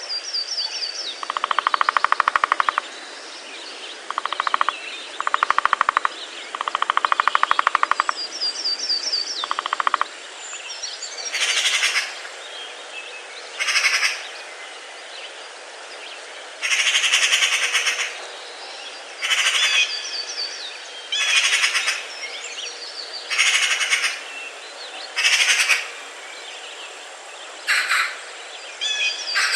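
Forest birds: about a dozen loud, rapid rattling bursts of one to two seconds each, the first few lower in pitch and the later ones higher and brighter. A small songbird's thin, high, descending trill comes in now and then.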